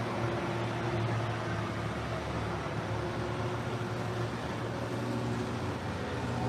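Steady low mechanical hum with a faint held tone, over an even hiss.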